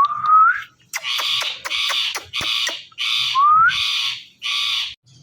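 Indian ringneck parrot giving a rapid run of about seven harsh squawks, with two short rising whistles mixed in, one right at the start and one about three and a half seconds in.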